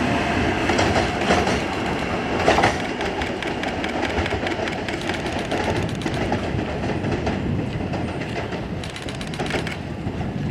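Shinkansen bullet train running past on the line, with a steady rushing noise and light rhythmic clicking from the wheels. The sound slowly fades away.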